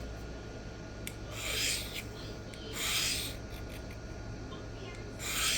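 Three short rasping scrapes of a steel knife blade's edge, about a second in, near the middle and near the end, as the edge is being dulled.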